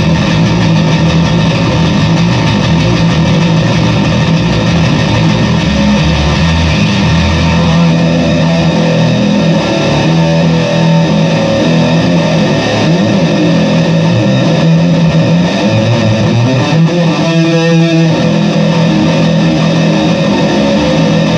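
Fender Squier VI six-string bass played through a fuzz pedal, giving a loud, heavily distorted tone in a continuous riff. There is one held, ringing note near the end.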